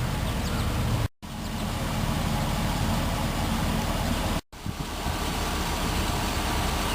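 Steady outdoor background noise with a low rumble, typical of road traffic, which cuts out abruptly twice for a moment, at edits.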